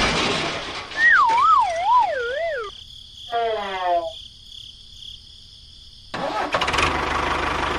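Added comic sound effects: a wobbling whistle-like tone that falls in pitch, then a quick run of short downward slides, before outdoor noise comes back about six seconds in.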